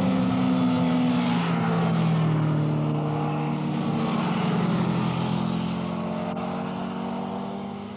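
Superbike racing motorcycle engines running hard as they pass, their pitch sliding slowly downward, then fading away near the end.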